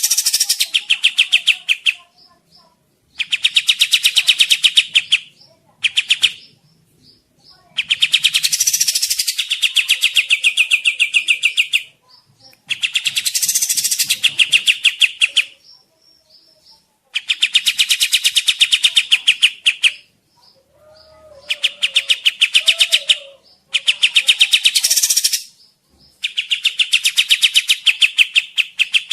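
Kapas tembak bulbul singing in repeated bouts, each two to three seconds of rapid, evenly spaced chattering notes with short pauses between: a lure recording.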